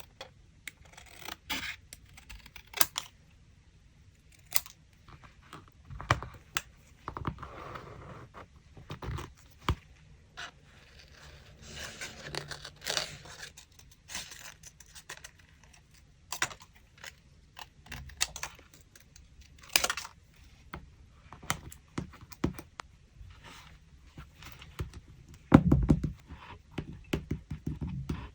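Paper-craft handling sounds from collaging a notebook page: paper rustling and sliding, with scattered light taps and clicks and a louder thump near the end.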